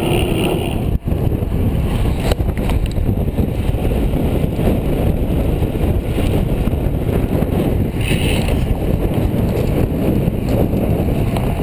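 Wind rushing over the microphone while riding a bicycle fast downhill, a loud steady rush that dips out briefly about a second in.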